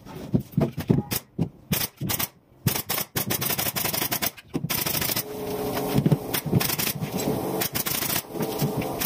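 Pneumatic nail gun firing a quick, irregular string of sharp shots while ceiling boards are fastened, with a steady hum under the shots in the second half.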